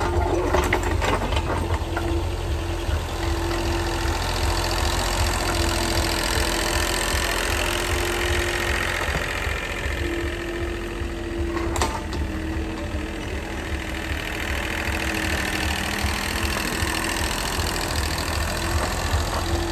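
A motor running steadily with a low hum, and a mid-pitched tone that keeps breaking off and returning.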